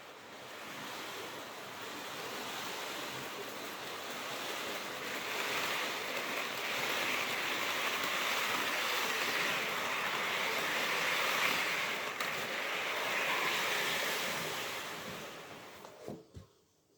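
Märklin HO model train rolling along the track, a steady rushing whir that swells and then fades away near the end as it passes.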